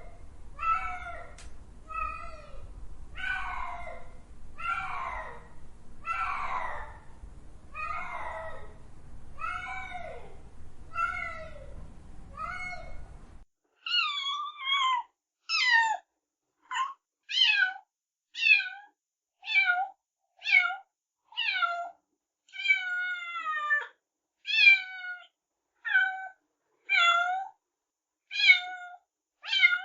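Cats meowing over and over, about one meow a second, each call falling in pitch. For the first part the meows sit over a low background hum. About 13 seconds in, this gives way to a cleaner run of shorter, higher meows with silence between them.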